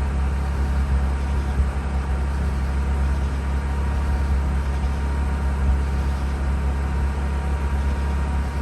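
Mazda RX-8's two-rotor Renesis rotary engine idling steadily, warm and just restarted after being deflooded; the owner fears it would stall if left alone.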